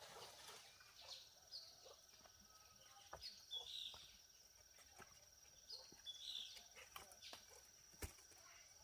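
Faint farmyard ambience: a small bird chirping in short high two-note calls, repeated three times, over a steady high insect whine, with a few light ticks.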